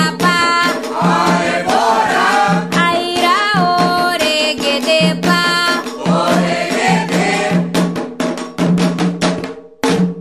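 Candomblé ritual chant for Xangô, sung by a group of voices over drums and percussion. The music thins out near the end, with a last stroke before it cuts off.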